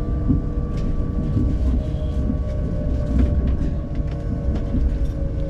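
Passenger train running, heard from inside the carriage: a steady low rumble with a constant hum and a few light clicks from the track.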